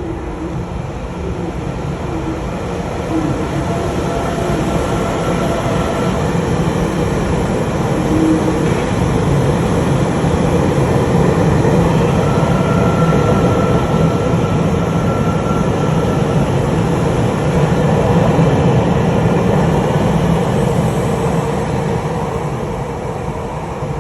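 TEMU2000 Puyuma tilting electric multiple unit running through an underground station without stopping: a continuous rumble of wheels on rails that builds up, is loudest in the middle, and eases off near the end, with a faint steady whine riding on top.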